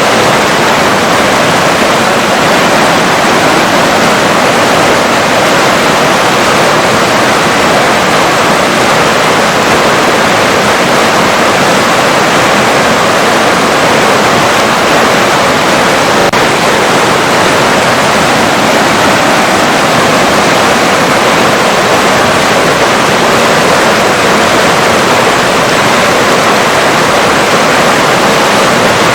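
River water rushing steadily, a loud even hiss with no changes.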